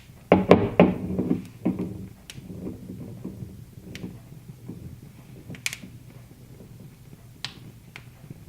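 Wood fire crackling in a fireplace, with single sharp pops every second or two. A burst of loud knocks and rattles comes in the first two seconds.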